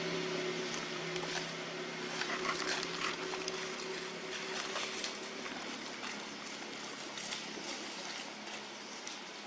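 A motor engine's steady hum fading away over the first half, with scattered small clicks and rustles over outdoor background noise.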